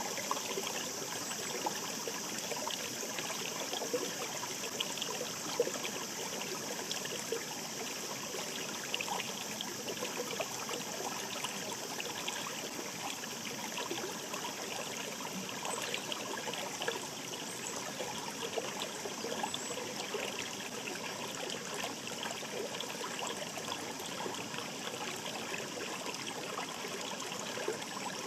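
Shallow mountain stream babbling over rocks: a steady rush of water with constant small splashes and trickles.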